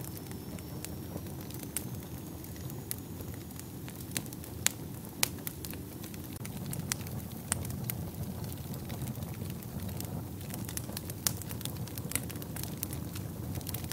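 Wood fire burning in a fireplace: a steady low rumble of flames with irregular sharp crackles and pops, a couple of louder pops about five seconds in.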